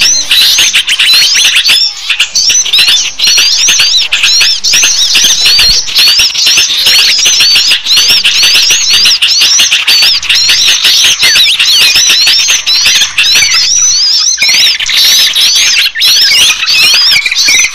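Dense, continuous chorus of many small songbirds chirping and twittering rapidly in short overlapping notes: a small-bird lure (pikat) call recording.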